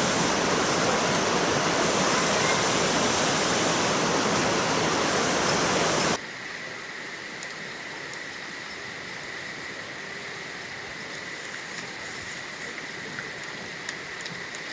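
Loud, steady rushing of water that cuts off suddenly about six seconds in. It gives way to a much quieter hiss with a faint steady high tone and a few light clicks.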